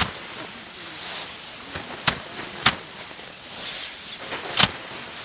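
Manual threshing of rice: bundles of cut paddy stalks slammed against a hard surface to knock the grain loose. Four sharp thwacks at uneven intervals.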